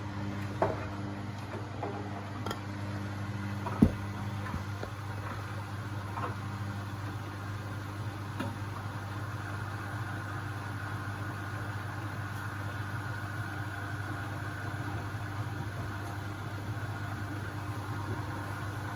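Beko WMB71642W washing machine starting its first intermediate spin: a steady motor hum as the drum turns, with a higher whine coming in about halfway as it picks up speed. A few knocks from inside the drum, the loudest about four seconds in.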